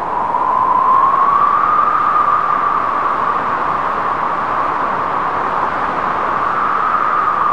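Wind sound effect: a steady rushing wind with a hollow whistling tone that slowly rises and sinks in pitch.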